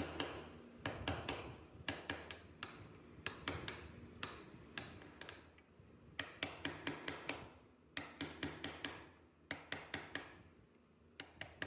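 Mallet tapping a carving chisel into wood: sharp taps, often in quick runs of several, with short pauses between.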